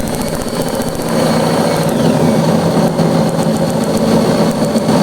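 Bench test of a home-built motorcycle CDI ignition: a motor runs steadily over a fast, even ticking of sparks fired through the ignition coil. A high whine drops in pitch about two seconds in and comes back up near the end.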